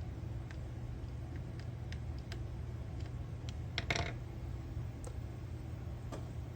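Light scattered clicks and taps of small metal parts and tools being handled, with a short clatter about four seconds in, over a steady low hum.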